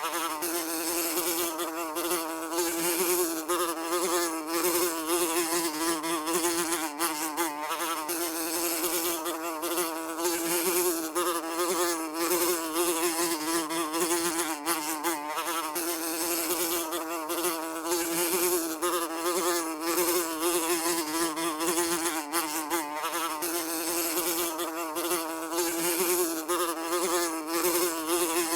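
Housefly buzzing continuously, a steady droning whine that wavers slightly in pitch as it flies about.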